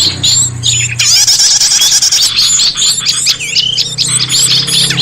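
Dense, overlapping chirps, trills and quick call notes of several small songbirds, a bird-lure recording used to draw small birds in. A low steady hum sits underneath at the start and returns near the end.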